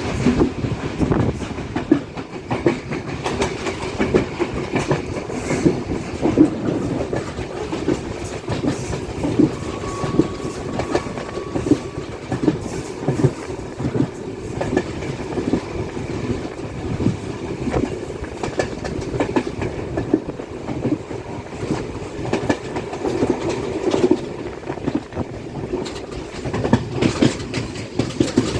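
Passenger train running along the track, heard from aboard: a continuous rumble of the carriage with dense, irregular clickety-clack of the wheels over the rails.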